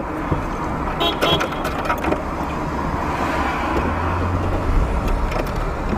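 Car engine and road noise heard inside the cabin through a dash camera, with a few faint clicks about a second in and a low rumble that grows louder near the end.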